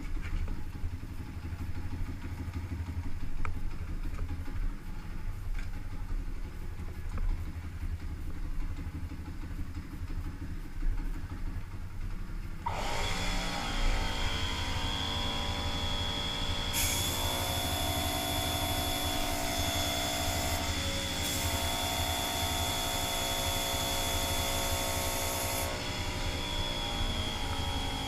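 124cc pit bike's single-cylinder engine idling with a low, uneven throb. About halfway through it picks up to a higher, louder running speed and holds there fairly steadily, dipping slightly a couple of times.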